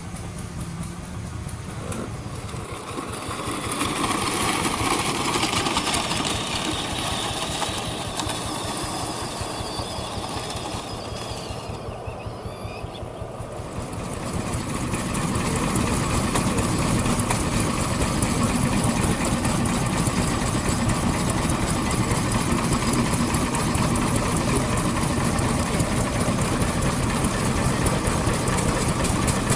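Vintage stationary engines running with a steady, rapid beat. The sound changes abruptly about two seconds in and again about fourteen seconds in, getting louder and fuller near the end.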